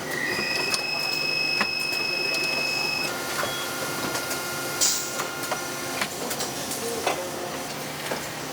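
Motor-assembly production machinery running: a steady high whine that drops to a lower whine about three seconds in and stops near six seconds, with scattered mechanical clicks and a short hiss of air about five seconds in.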